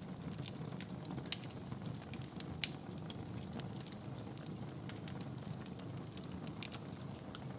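Wood fire crackling in a fireplace: frequent small sharp pops and snaps over a steady low rush of burning. Two louder pops come a little over a second in and at about two and a half seconds.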